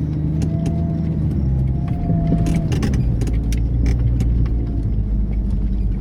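Motor vehicle engine running steadily, its pitch shifting slightly partway through. From about two seconds in, it is overlaid by a series of sharp rattling clicks, like loose items jostling as the vehicle moves over rough ground.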